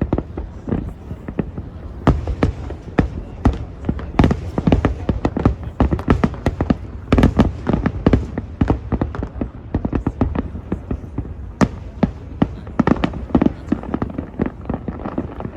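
Fireworks display: aerial shells bursting in quick, irregular succession, several bangs a second.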